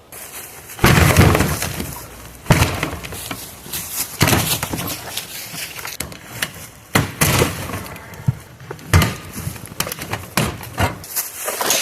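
Dishwasher being broken apart by hand: a long crash about a second in, then a string of cracks, bangs and rattles as its panels and parts are wrenched and broken.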